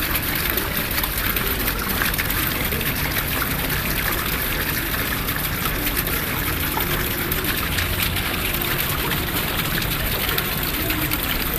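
Steady rush of running water, an even hiss-like noise with no rhythm or pitch.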